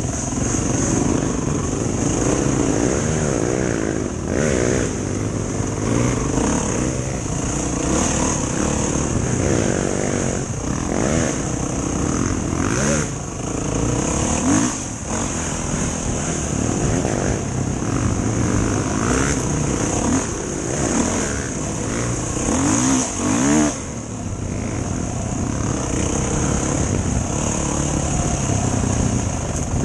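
Motorcycle engine running, its revs rising and falling again and again, over a steady high hiss.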